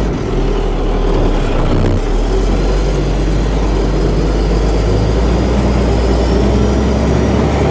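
Dump truck engine running steadily, a deep even sound with no change in speed.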